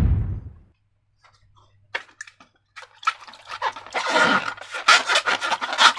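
A brief rushing hiss fading out at the start, then wet, sticky slime being squished and worked by hand: scattered clicks about two seconds in that thicken into dense crackling and squelching.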